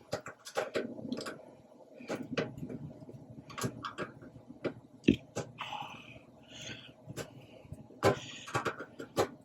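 Irregular metallic clicks, knocks and scraping of hand tools and parts being handled while a furnace blower motor is worked on, with a sharper knock about five seconds in and another about eight seconds in.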